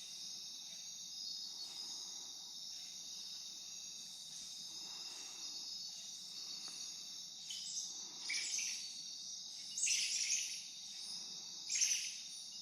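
Steady, high-pitched chorus of night insects in tropical rainforest. A few short, louder sounds break over it in the second half.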